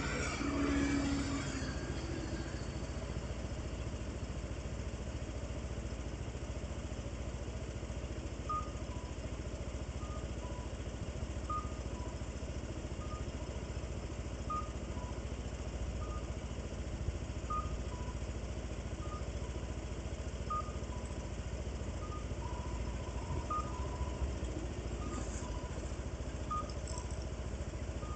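A vehicle running with a steady low rumble. From about eight seconds in, a turn-signal indicator ticks in an alternating two-note tick-tock, about one pair every second and a half.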